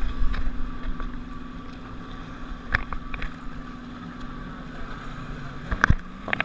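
Jet ski engine running steadily at low speed, a constant hum over water and wind noise, with a few brief knocks.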